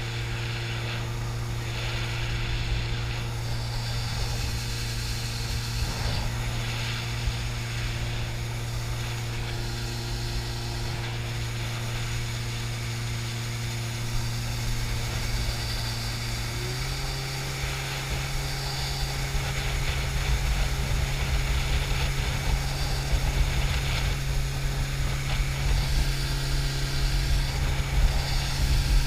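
80 hp jet boat engine running at a steady speed, an even drone. A little past halfway the pitch steps up slightly as the revs rise, and it grows louder toward the end.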